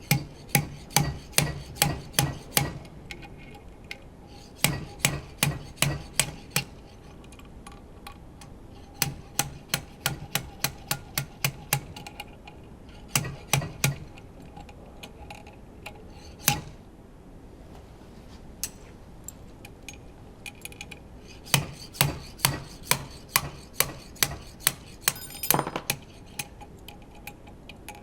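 Hand tools at work on a metal engine: runs of sharp metallic clicks or taps, about four a second, in groups lasting two to three seconds with pauses between, and one longer metallic scrape near the end.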